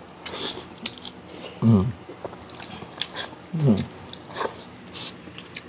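Close-miked chewing and wet lip smacks of a person eating bulalo beef, with two short hums falling in pitch, about two and four seconds in.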